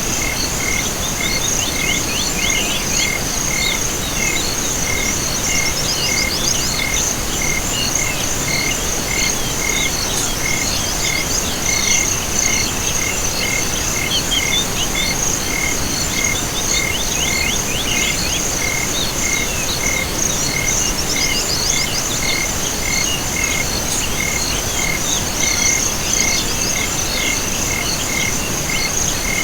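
Night chorus of insects and frogs: a continuous high-pitched trill, a steady pulsing call repeating about twice a second, and now and then quick runs of chirps layered over them.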